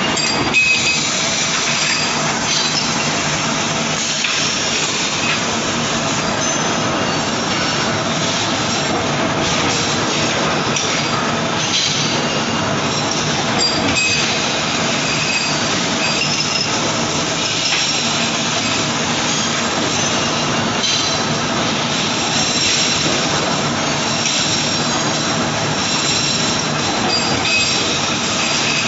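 Flat forging machine running in a forge: a steady mechanical clatter and hum with scattered metallic clinks and faint squeals, no single heavy blow standing out.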